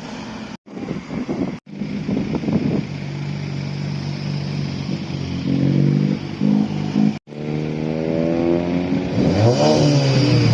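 Car engines at a car meet, heard in several short cut-together clips: running and idling at first, then revved hard over and over from about eight seconds in, the pitch rising and falling with each blip of the throttle.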